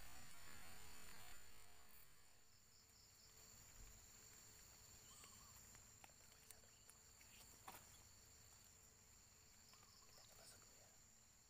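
Faint insect chorus: a steady high-pitched buzzing in two tones with a faint pulse in it. A soft hiss fades out in the first second and a half, and there are a few faint ticks.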